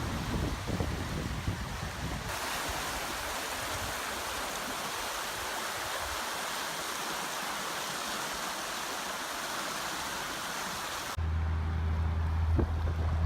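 Steady rushing noise of flowing floodwater, changing abruptly twice as the clips cut. Near the end it gives way to a low steady hum.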